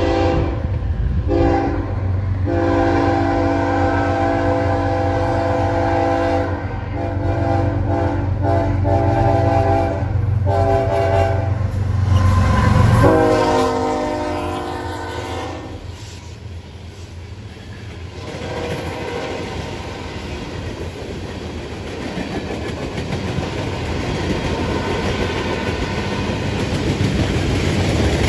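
Diesel locomotive blowing its multi-note air horn in a string of long and short blasts over the rumble of its engine. About 13 seconds in, the horn's pitch drops as it passes, the horn stops, and the rolling railcars follow with wheels clicking over the rail joints, growing louder toward the end.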